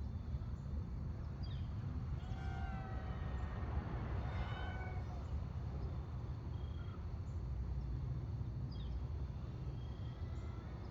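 Steady low rumble of wind noise, with a wavering animal call of several layered tones from about two to five seconds in and a few short, high bird-like chirps scattered through.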